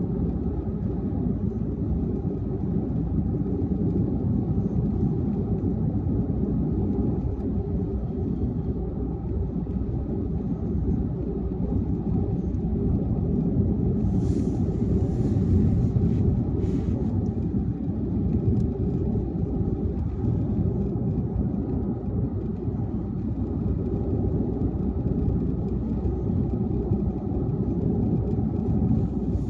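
A car driving along a highway, with a steady low rumble of road and tyre noise and a brief hiss about halfway through.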